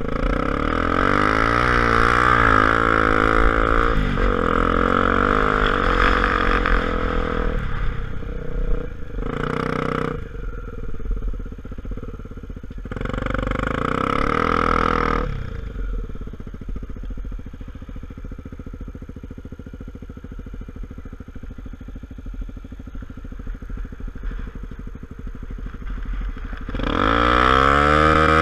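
Single-cylinder engine of a Honda XR250 Tornado trail motorcycle running under way. For the first fifteen seconds or so its pitch rises and falls as the rider accelerates and shifts. It then settles into quieter, steadier running, and revs up loudly again near the end.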